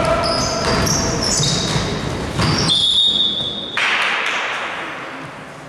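Sneakers squeaking in quick short chirps on a gym court during basketball play, then a single steady whistle blast lasting about a second, near the middle.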